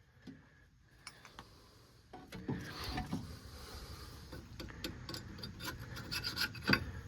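Hand tools working a brake caliper slide pin loose: irregular metallic clicks and scraping, getting busier about two seconds in, with a sharper knock near the end.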